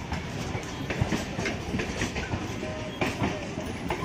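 Electric multiple unit (EMU) local train rolling past, its coaches' wheels clattering over the rail joints: a steady rumble with repeated sharp clacks.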